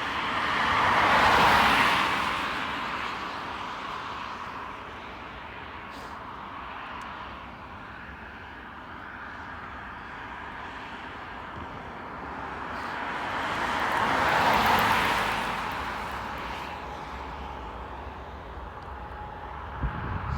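Two vehicles pass by, each a swell of noise that rises and fades over about four seconds, the first about a second and a half in and the second near fifteen seconds. Between them a steady outdoor rumble with a faint steady whine.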